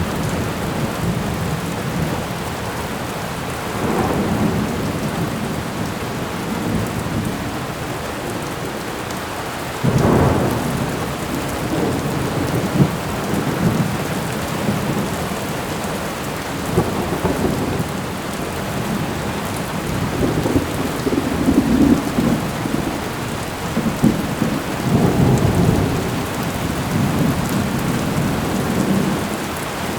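Thunderstorm: steady rain with repeated rolling thunder rumbles, a sudden louder peal about ten seconds in and several more swells later.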